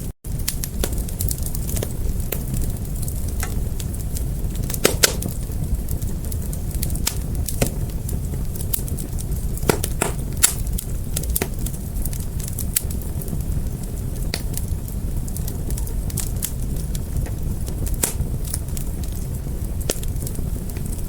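Wood fire crackling: irregular sharp pops and snaps, a few of them louder, over a steady low rumble of the flames. The sound cuts out for an instant just after the start.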